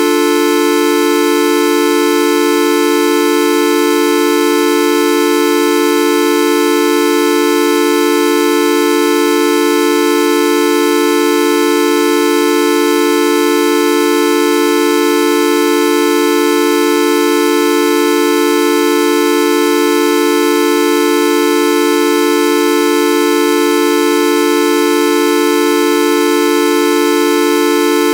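Videoup V1.2 sound effect: a loud, steady, horn-like buzzing tone held on one pitch without any change.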